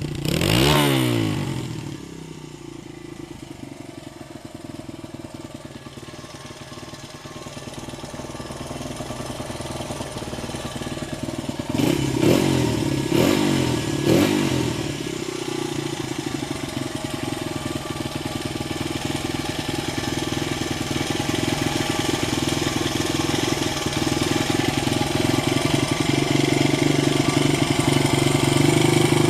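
1996 Honda XR100's single-cylinder four-stroke engine running. It revs briefly about a second in and then settles to idle. It blips three times in quick succession around the middle, then holds a steady idle that slowly grows louder toward the end.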